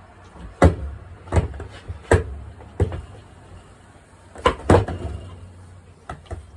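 Skateboard deck clacking and thudding as tricks are popped and landed. There are four sharp hits about two-thirds of a second apart, then two close together about four and a half seconds in, then lighter taps near the end, and a short low rumble follows several of the hits.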